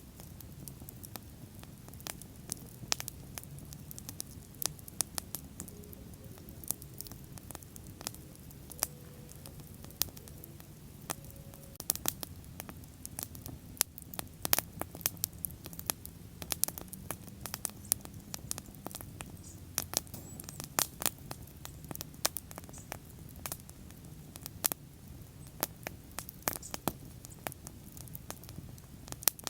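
Bonfire burning: irregular sharp crackles and pops of the burning wood, several in quick succession at times, over a low steady rumble of the flames.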